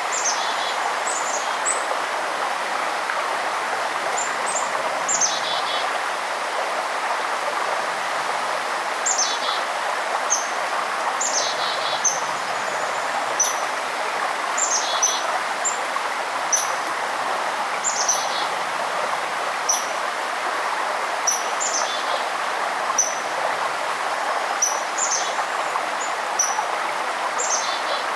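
Steady rush of a river or stream, with songbirds calling over it: short, high chirps repeating every second or two, mixed with downward-sweeping calls that end in a quick trill.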